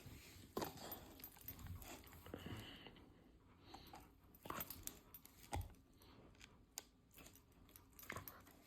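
Rottweiler gnawing on a chew bone: faint, irregular crunches and clicks.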